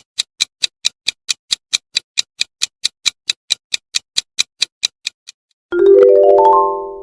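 Quiz countdown timer sound effect: fast even ticking, about four or five ticks a second, stops about five seconds in. It is followed by a bright chime of quickly rising notes that rings out and fades, signalling time up before the answer.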